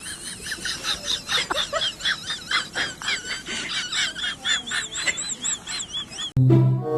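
Rapid high chirping calls, like birds or chicks peeping, about three or four a second, with several callers overlapping at first. Near the end they cut off suddenly and music with held tones begins.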